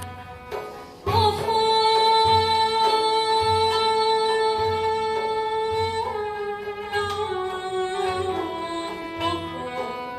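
Turkish classical ensemble playing a Hüseynî şarkı in Düyek rhythm: a long held melodic note about a second in, then a line stepping down in pitch, over low drum strokes in a steady beat.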